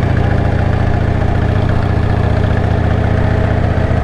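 Motorcycle engine running steadily at a constant road speed, a deep, even hum with no change in throttle.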